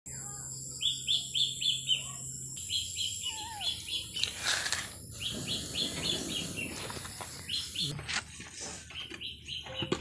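A bird chirping in quick runs of short, even notes, about five or six a second, repeated several times. Behind it a thin, steady, high-pitched whine stops abruptly about eight seconds in.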